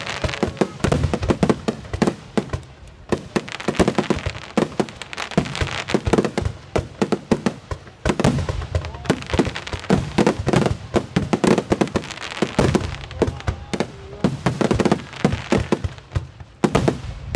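Fireworks display: a rapid barrage of aerial shells bursting, many sharp bangs a second running into one another, with a few short lulls.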